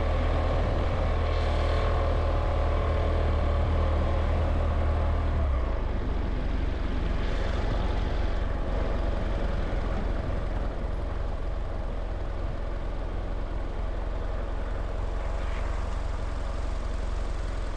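Vehicle running steadily along a road: a low engine hum under road and wind noise. The deepest part of the hum drops off about five and a half seconds in.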